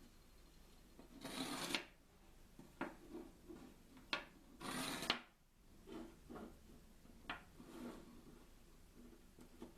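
Small handling noises: two brief scraping rubs and a few sharp clicks of objects being moved and set down.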